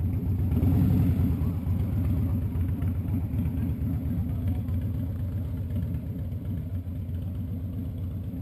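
Motorcycle engine rumbling at low revs, swelling to its loudest about a second in, then running on steadily.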